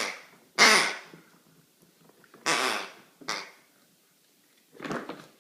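Quacking toy duck squeezed again and again as a dog chews it: five quacks, the second the loudest.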